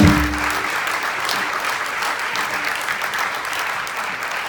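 Audience applauding at the end of a jazz band's tune, with the band's last chord ringing out and dying away within the first second.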